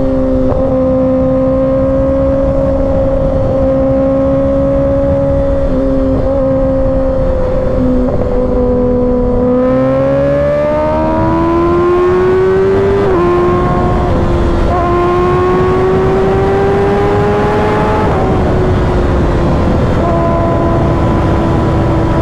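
Kawasaki Ninja ZX-6R's inline-four engine at high, steady revs over heavy rushing wind. About ten seconds in it pulls harder and the pitch climbs, then drops with an upshift, climbs again and drops with another shift before settling.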